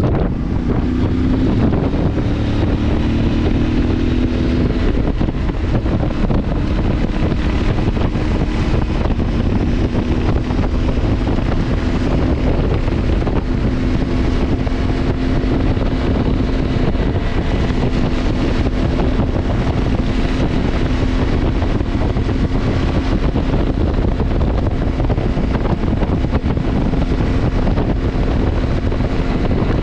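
Heavy wind noise on the microphone of a moving CFMoto motorcycle, over the steady drone of its engine, whose pitch rises a little in the first few seconds.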